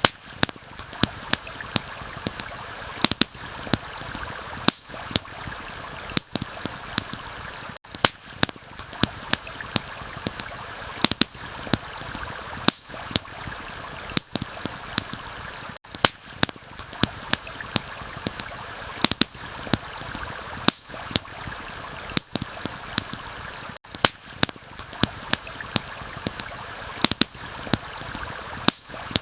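Campfire crackling with frequent sharp, irregular pops over the steady rush of a flowing stream.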